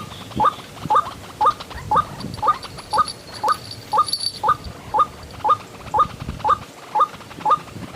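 White-breasted waterhen calls: a short rising note repeated evenly about twice a second, around sixteen times without a break.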